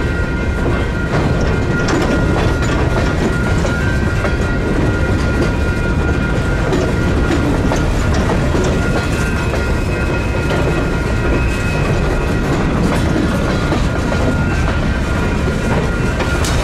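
Train cars rolling past, their wheels clicking over the rail joints above a steady rumble, with a thin high ringing tone held over it.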